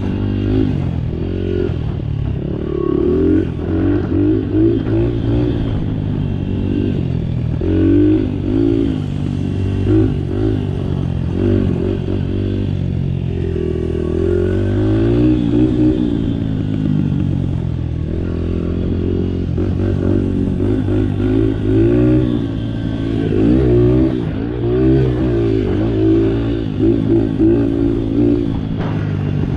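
Small Honda 50cc dirt bike engine running under riding load, its pitch rising and falling again and again as the throttle opens and closes, with rattling from the bike over bumpy dirt track.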